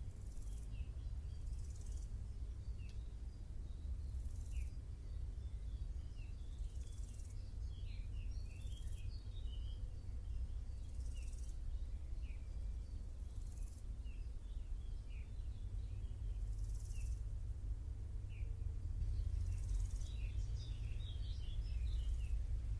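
Small birds twittering in many short chirps, busiest about eight to nine seconds in and near the end, with insects stridulating in short high buzzing bursts every two to three seconds. A steady low rumble runs underneath.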